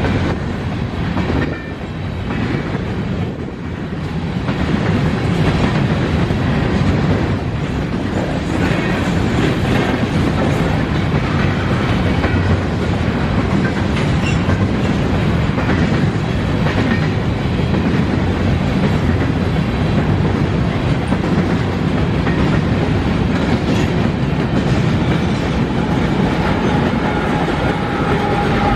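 Empty covered hopper cars of a unit grain train rolling steadily past, steel wheels running on the rails.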